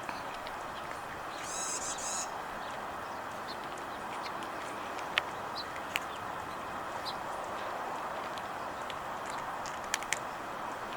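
Steady outdoor background noise with a bird calling, a short high warbling burst of notes about a second and a half in. A few sharp clicks follow, two near the middle and a quick pair near the end.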